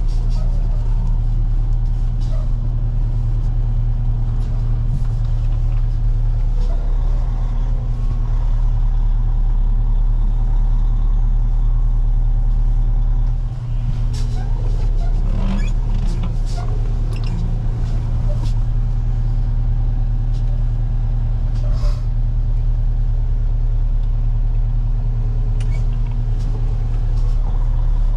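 Heavy-duty tow truck's diesel engine running steadily while driving, a constant low drone. A few clicks and rattles come about halfway through, with one more later.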